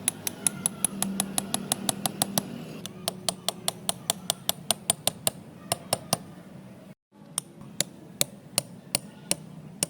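Rapid series of light, sharp taps, about five or six a second, like small hand-tool work on a miniature model, broken by a brief cut about seven seconds in.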